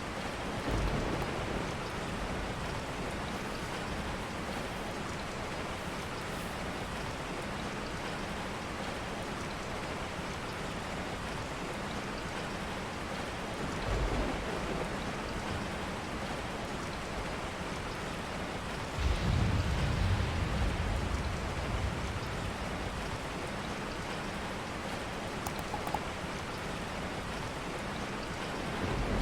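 Steady rain falling, with a few brief low rumbles, the longest and loudest about two-thirds of the way through.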